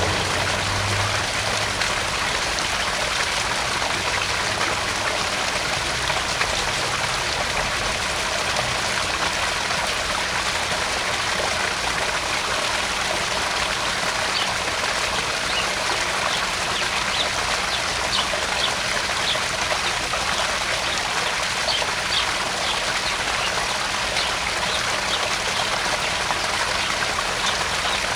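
Garden pond waterfall splashing steadily into the pond, a constant rushing trickle of water. In the second half, short high chirps come now and then over the water.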